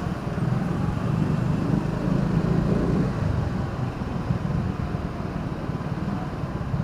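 Steady engine and road noise from a vehicle being driven through city traffic, a continuous low rumble with no sudden events.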